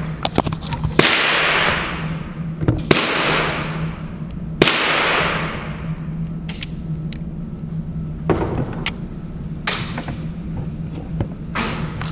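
Handgun shots at a shooting range: about six shots, one every second or two, each with a long ringing echo.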